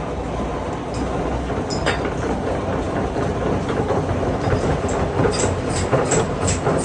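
Milling machine running and cutting a spline shaft, a steady mechanical noise. In the second half there is a regular ticking, about two to three clicks a second.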